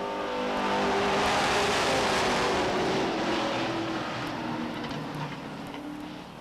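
A pack of short-track stock cars racing past at full throttle, many engines at once, the sound swelling in the first second or two and then slowly fading as the field moves away.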